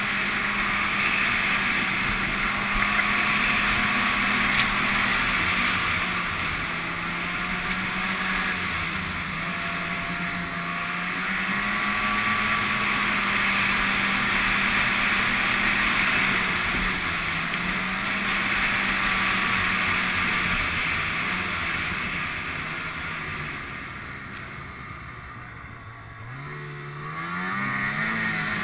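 Ski-Doo snowmobile engine running at a steady cruising throttle, its pitch wandering slightly. Near the end it eases off and quietens, then revs up again with a rising pitch as the sled accelerates.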